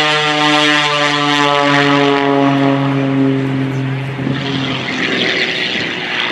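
Edge 540 aerobatic plane's Lycoming six-cylinder piston engine and propeller droning past, the pitch falling as it goes by and fading away after about four to five seconds, leaving a rushing hiss.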